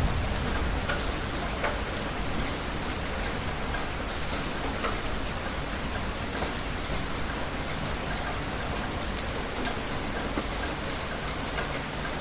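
Heavy rain falling steadily, with scattered sharp drop hits. The tail of a thunder rumble fades out in the first second or so.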